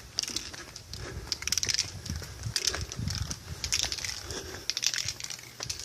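Footsteps crunching and rustling through vegetation and debris on rough ground, about one step a second.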